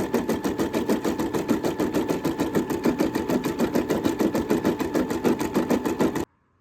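Sewing machine stitching at a fast, even rhythm, then stopping abruptly about six seconds in.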